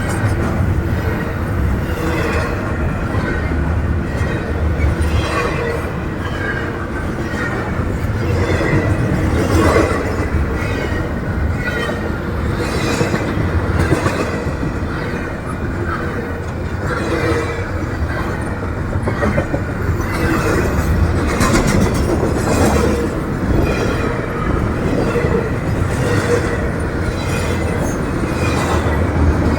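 Train rolling past, its cars making a continuous rumble, with wheels clattering on the rails and squealing now and then.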